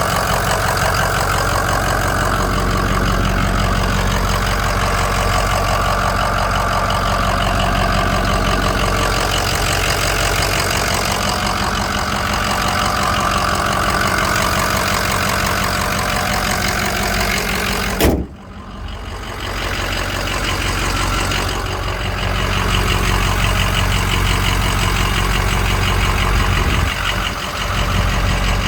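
Ford 6.0 L Power Stroke V8 turbo diesel idling steadily with its typical diesel clatter. About two-thirds of the way through there is one sharp knock, and the engine sound is briefly much quieter before it returns.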